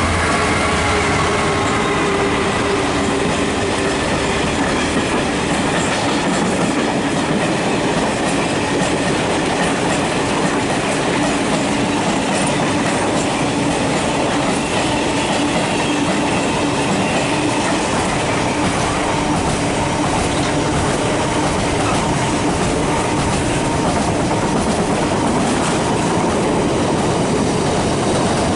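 Class 66 diesel freight locomotive passing close by at speed, its two-stroke V12 engine note dropping in pitch over the first few seconds as it goes by. A long train of covered freight wagons follows, rolling past in a steady, loud rumble.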